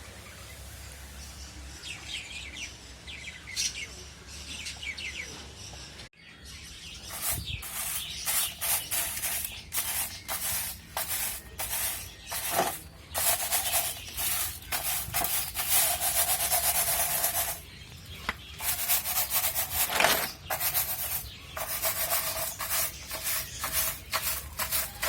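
Small pet parrots chirping for the first few seconds. After a sudden cut comes a long run of rough scrubbing strokes, about two a second, as a bird cage tray is scrubbed clean.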